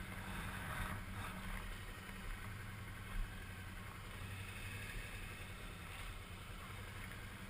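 Suzuki V-Strom 650's V-twin engine idling steadily with a low hum, with a single short knock about three seconds in.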